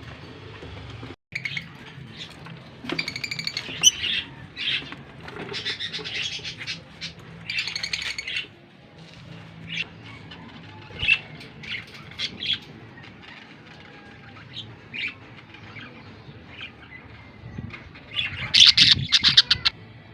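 Pet lovebirds chirping and squawking in scattered bursts, with the loudest flurry of rapid calls near the end.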